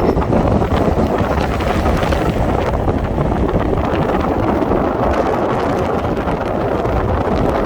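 Steady wind buffeting the microphone with a rough, continuous rushing noise.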